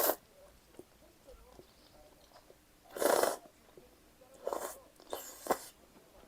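Close-miked eating sounds: three short, noisy bursts of biting or slurping, about three, four and a half and five and a half seconds in, with faint chewing between.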